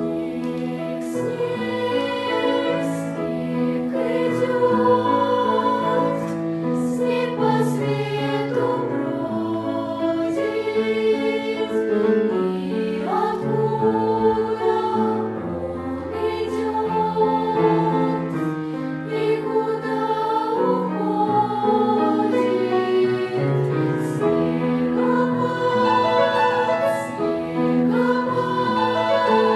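Choir singing a song in several parts, with held, stepping notes.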